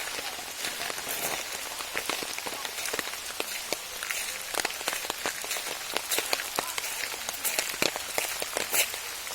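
Steady rain falling, with many close raindrops ticking sharply and irregularly over a soft hiss.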